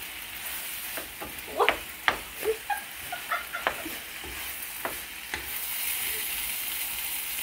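Fried rice sizzling in a wok as a wooden spatula stirs and breaks it up, with sharp scrapes and taps on the pan through the first few seconds, then a steady sizzle.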